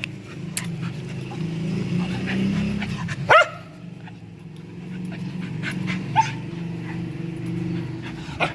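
A dog yelping: one loud yelp rising in pitch about three seconds in, and short yips near six seconds and near the end, over a steady low hum.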